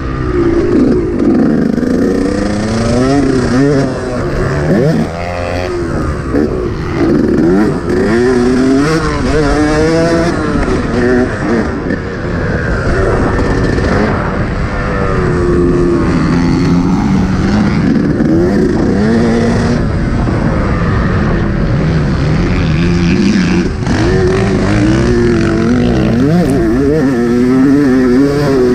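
Yamaha YZ125 single-cylinder two-stroke motocross engine being ridden hard, revving up and dropping back over and over as the rider works the throttle and gears around the track. Noise from wind and the ride runs under it.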